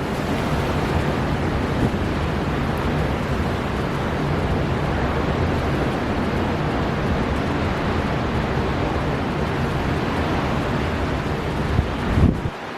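Storm wind blowing hard over heavy surf: a steady rushing noise with deep, gusty rumble of wind buffeting the microphone. Near the end the low rumble drops away suddenly.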